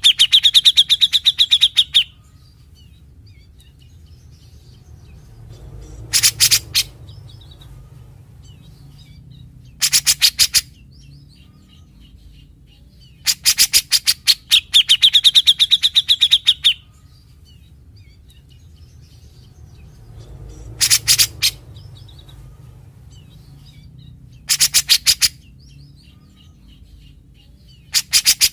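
Grey-cheeked bulbul (cucak jenggot) singing its harsh, rattling 'besetan' phrases: loud bursts of very rapid notes every few seconds, most under a second long and one of about three seconds near the middle.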